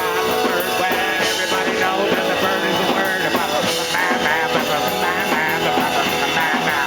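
Rock-and-roll band playing loud surf rock with electric guitar and drum kit.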